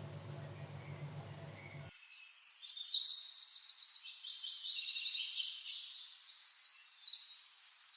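A low steady hum for about two seconds, then it cuts out and songbirds sing: high-pitched chirps and fast trills that carry on to the end.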